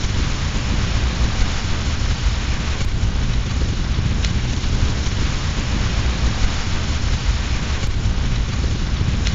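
Steady rain with a deep rumble underneath, with a few faint pops from a crackling fireplace fire.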